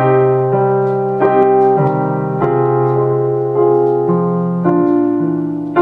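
Piano playing a short melody over sustained chords, a new note or chord struck about every half second to second and left ringing. It is an ear-training example for telling major from minor.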